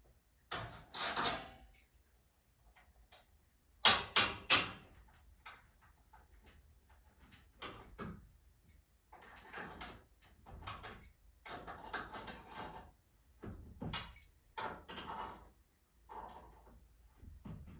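Irregular metallic knocks, clatter and scraping from hands-on work on garage door hardware, with a quick run of three sharp knocks about four seconds in.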